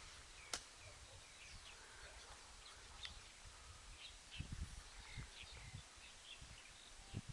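Many small birds chirping faintly in short scattered calls, over low rumbles of wind or handling noise. A sharp click about half a second in.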